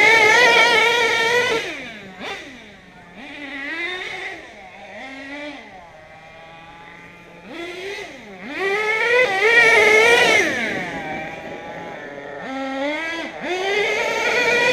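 Nitro RC monster truck's small glow engine being revved in repeated throttle bursts, the pitch climbing and dropping several times. It settles briefly to a low, steady idle about six seconds in before revving hard again.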